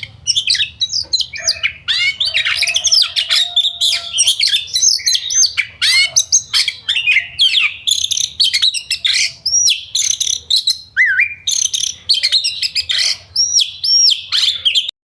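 Yellow-vented bulbuls (trucukan) singing: rapid, bubbly chirps and short whistled notes, several calls overlapping, with a faint low hum underneath.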